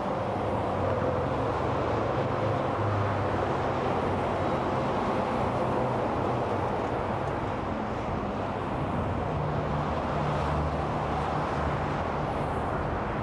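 Steady roar of freeway traffic: tyre noise from a continuous stream of cars and trucks, with the low engine hum of heavier vehicles coming and going.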